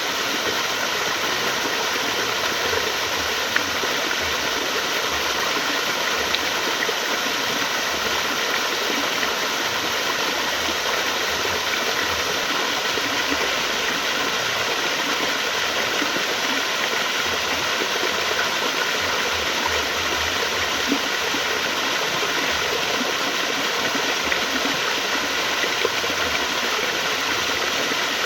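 Flowing water running steadily, an even, unbroken wash of sound with no pauses.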